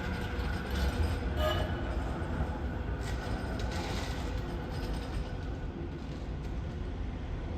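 Manchester Metrolink tram pulling away and moving off: a steady low rumble with a faint electric motor whine that fades in the first second or so. A few clicks come from the wheels on the track.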